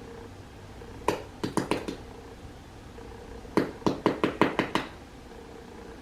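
Knife cutting through the microwave Oreo cake and knocking against the plate beneath, in two quick runs of sharp knocks: about half a dozen a second in, then a denser run of about eight near the middle.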